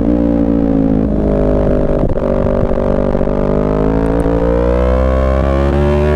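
Yamaha R3's parallel-twin engine running at steady revs under way, its note dipping slightly in pitch through the middle and climbing again near the end.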